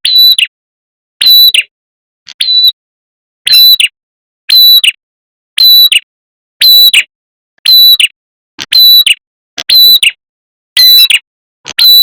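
Red-headed prenjak (tailorbird) lure call: a short, loud, sharp call repeated at a steady pace of about one a second, roughly eleven times. It is a looped recording used to draw the birds in for trapping.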